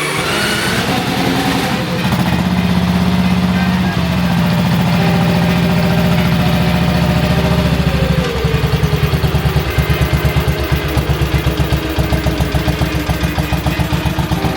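1946 Matchless G80's 500 cc single-cylinder four-stroke engine running on its first start after a complete rebuild. It runs fast at first, then about eight seconds in drops to a slower idle where each firing beat can be heard.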